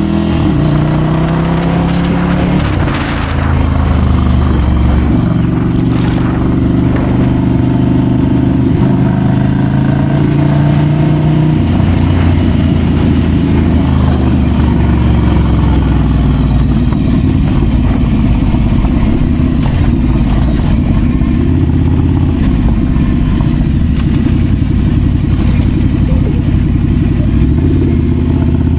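Ducati Scrambler's air-cooled L-twin engine running under way, its revs rising near the start and then shifting up and down as it is ridden. There is a brief dip in level about three seconds in.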